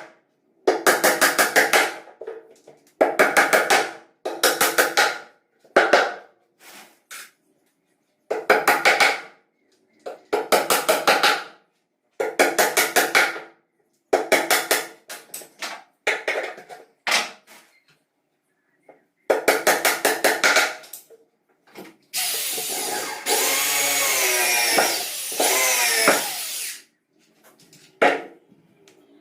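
Cordless drill-driver run in short bursts of about a second each, about a dozen times, as when driving screws into plywood. Near the end a power tool runs for about five seconds with a rougher, hissing sound.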